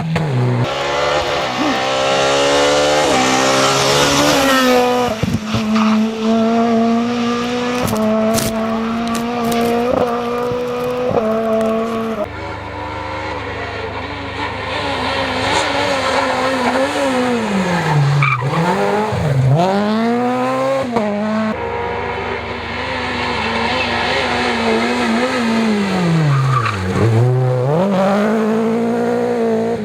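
Rally car engines at full throttle: revving up through quick gear changes, holding high revs, then dropping sharply in pitch as the driver lifts off and climbing again, twice in the second half. Tyres squeal.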